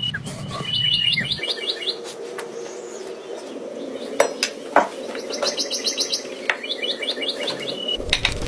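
Songbird singing in two runs of rapid repeated high chirps, over a steady frying sizzle, with a couple of sharp clicks in the middle.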